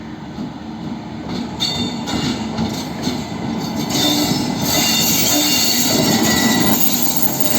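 Passenger train of LHB coaches behind an electric locomotive rolling through, with steel wheels running on the rails. The sound grows steadily louder and takes on a brighter, hissing edge about four seconds in.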